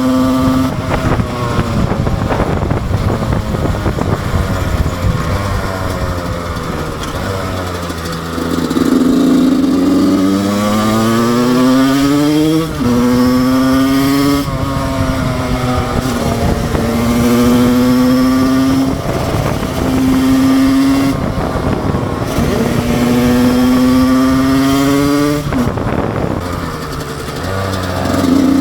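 Husqvarna SM 125 two-stroke single-cylinder motorcycle engine under way, pulling hard with its pitch climbing, then dropping sharply at gear changes about halfway through and again near the end, with steadier stretches at held revs between.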